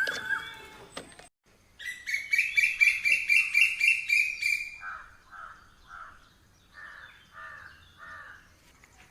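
Birds singing: after a short cut to silence about a second in, a fast run of repeated high chirps, then slower falling notes about twice a second.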